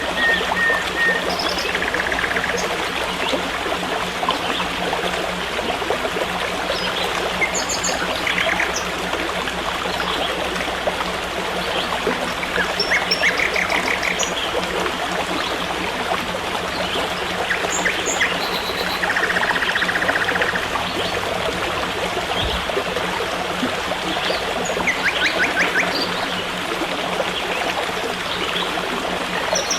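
Forest stream trickling steadily, with birds calling in short chirping trills every few seconds and a steady low hum underneath.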